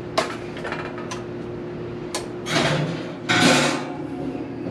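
Baking dish and oven being handled: a few light knocks and clicks, then two short scraping sounds in the second half, like the rack sliding and the oven door shutting. A steady low hum runs underneath.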